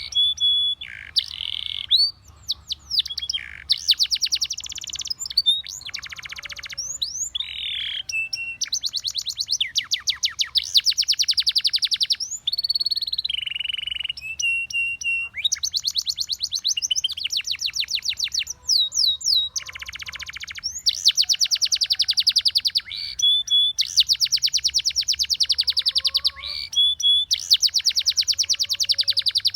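Russian singing canary in full song: long rapid trills and rolls alternating with held whistled notes and quick gliding chirps, phrase after phrase with brief pauses between.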